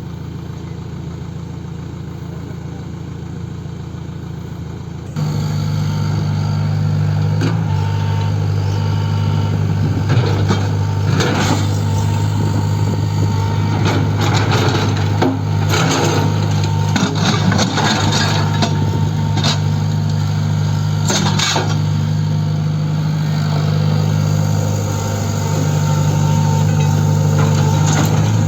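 Excavator's diesel engine running steadily, stepping up louder about five seconds in, with a string of sharp knocks and clanks through the middle.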